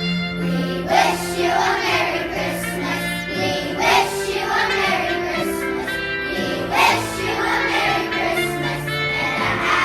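A young choir singing a holiday song over held instrumental accompaniment, with the voices coming in about a second in.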